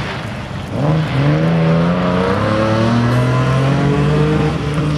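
Rally car engine under hard acceleration, loud from about a second in, its note climbing slowly as it pulls, then easing off near the end.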